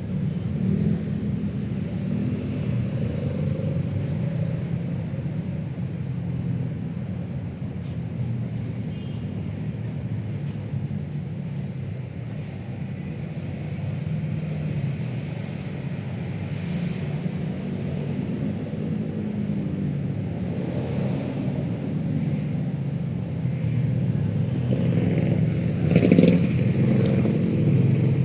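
Steady rumble of city road traffic, cars passing continuously. It swells near the end with a brief louder moment.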